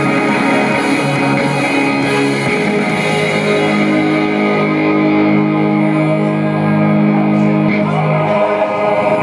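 Guitar music: chords played, changing about two and a half seconds in, then held through the middle and dying away near the end.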